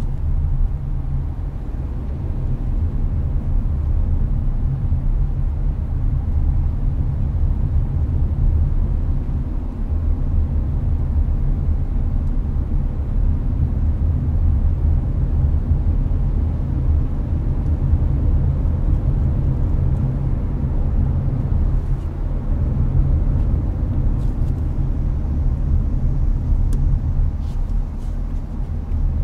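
Hyundai Avante cruising on an expressway, heard from inside the cabin: a steady low rumble of road and engine with the air conditioner blowing.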